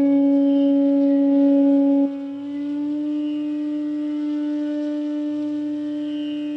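Bansuri bamboo flute holding one long low note. About two seconds in, the note softens and moves slightly higher, then holds steady.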